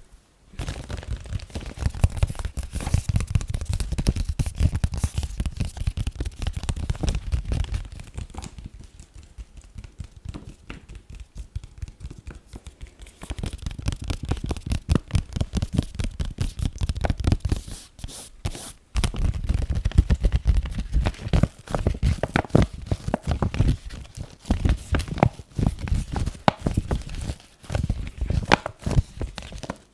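Fast ASMR tapping and scratching close to the microphone: a dense run of rapid taps and scrapes. It goes softer for a few seconds about a third of the way in and stops briefly around two thirds of the way through.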